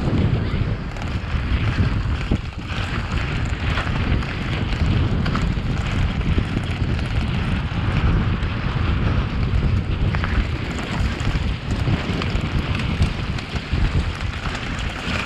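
Wind rushing over the microphone at speed, with a mountain bike rattling and knocking over a rocky downhill trail in many small, irregular impacts.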